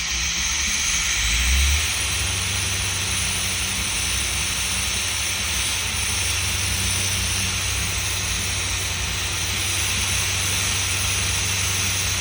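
A 1984 car's engine running at a fast idle, about 1400 rpm, with a steady hiss over a low hum and a brief louder surge about a second and a half in. The idle speed is too high for a warm-up.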